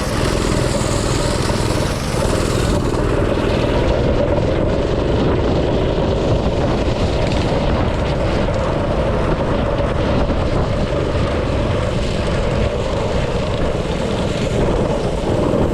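Small petrol engine of a go-kart-style yard racer running steadily at speed, heard up close.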